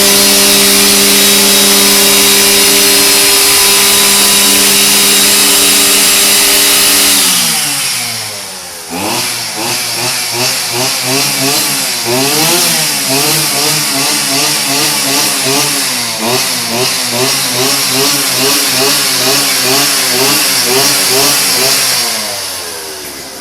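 Stihl string trimmer engine running at steady high revs, then dropping off about seven seconds in. It then runs with its pitch rising and falling about one and a half times a second, and winds down toward idle near the end.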